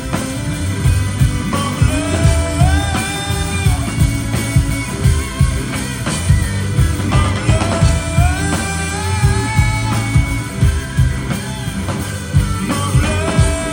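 Rock band playing live, with drums, electric guitar and bass under a lead vocal singing in phrases that come and go.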